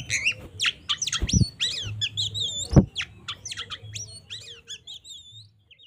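Oriental magpie-robin (kacer) singing in aggressive fighting mode: a fast string of varied sweeping whistles and harsh notes, thinning out and stopping near the end. Three heavy low thumps sound near the start, about a second and a half later, and again about three seconds in.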